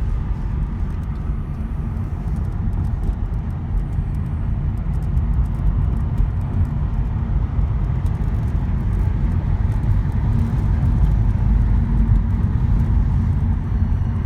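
A car driving along, with a steady low road and engine rumble that grows a little louder in the second half.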